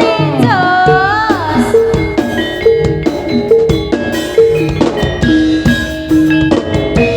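East Javanese jaranan gamelan music played through a loud sound system. Drums beat under repeated metallophone notes, and a sliding melodic line bends up and down in the first second and a half.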